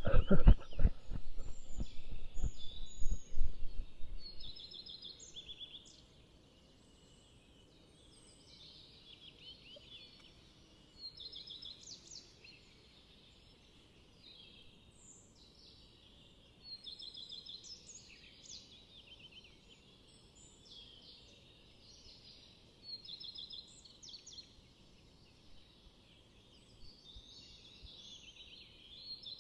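Songbirds singing: repeated short phrases of high chirps and trills, one phrase every few seconds. A run of low thumps, loud and close, covers the first four seconds.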